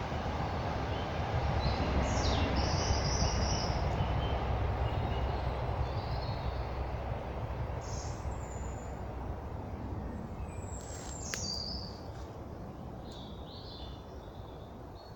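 Distant train rumbling past and slowly fading away, with small birds chirping in short, high calls over it.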